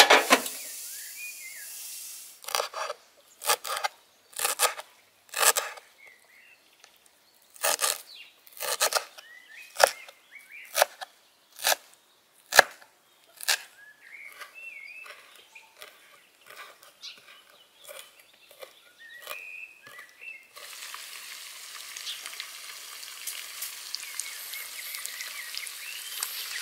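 A series of sharp knocks, about one a second, then birds chirping, then from about two-thirds of the way in the steady sizzle of lamb liver and potatoes frying on a hot saj.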